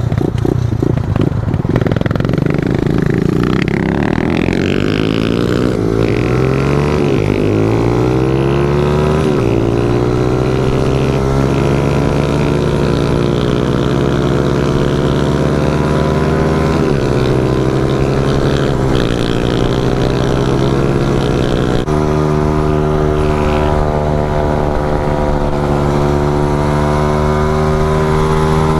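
Small pit bike engine pulling through the gears. Its pitch climbs in each gear and drops suddenly at three upshifts, then settles into a steady cruise near the end.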